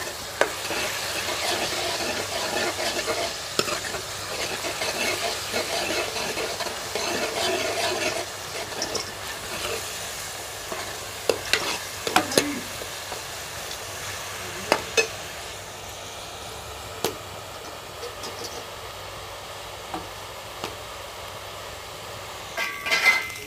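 Ground spice masala frying in oil in a kadhai over a wood-fired chulha, sizzling steadily while a ladle stirs it, with a few sharp knocks of the ladle against the pan. The masala is being roasted (bhuna) until cooked through. The sizzle is louder for the first eight seconds or so, then softer.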